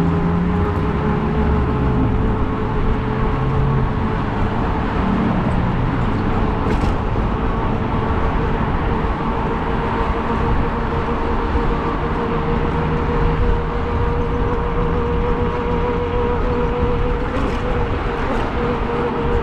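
Steady rumble and traffic noise heard from a moving e-bike, with a constant whine held under it throughout.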